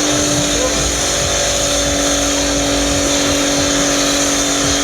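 Car engine held at steady high revs, one unchanging note, over a loud continuous hiss.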